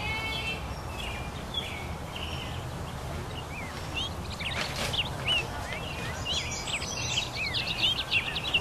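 Birds chirping in many short calls, busier through the second half, over a steady low background rumble. A brief rustle a little before the five-second mark.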